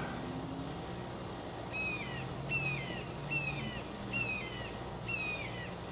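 Osprey calling: five short whistled chirps, each falling in pitch, starting about two seconds in and repeating roughly once a second, over the steady low hum of an air conditioner.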